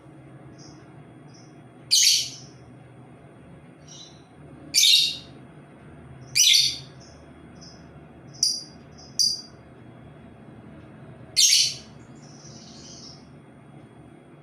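Labet bird calling, played as a lure for other labet birds: six loud, short calls a second or more apart, with soft, brief chirps in between.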